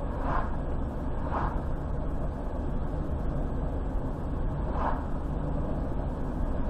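Steady low road and engine rumble of a car driving on a highway, with three short hissing swishes along the way.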